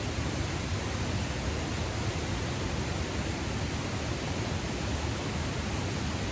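Steady rushing noise of falling water, heavy rain and the nearby waterfall, with no breaks or single events.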